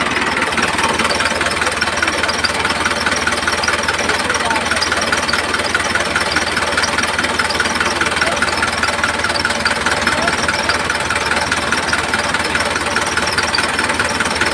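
Machine running steadily with a fast, even, engine-like rattle.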